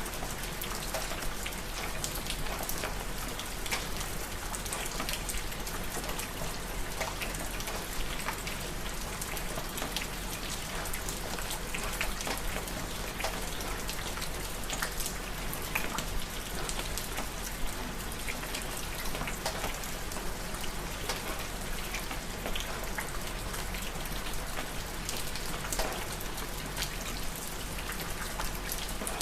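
Steady night rain falling, a constant hiss of rainfall with many separate drops pattering and ticking on a surface.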